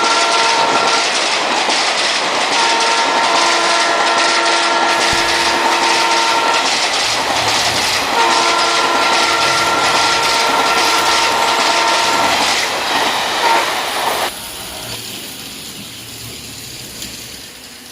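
Model trains running on track with a steady rattle of wheels and motors, while a locomotive's sound unit blows a multi-tone horn three times, each blast a few seconds long. The running noise drops sharply about fourteen seconds in.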